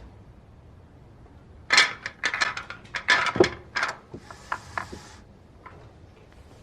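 A quick run of sharp clacks and knocks lasting about two seconds, followed by a brief hiss with a few more clicks.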